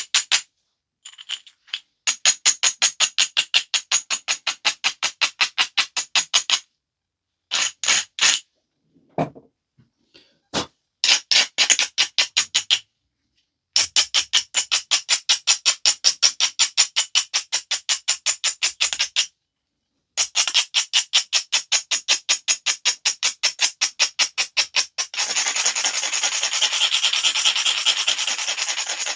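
Edge of a stone biface being abraded: quick back-and-forth scraping strokes, about five a second, in runs of a few seconds with short pauses. Near the end they turn into one continuous rasping rub.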